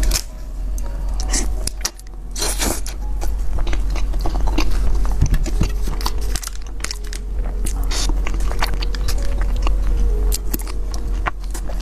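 Close-miked ASMR eating: biting and chewing food, with a loud crunchy bite about two and a half seconds in and many small wet clicks from the chewing, over a steady low hum.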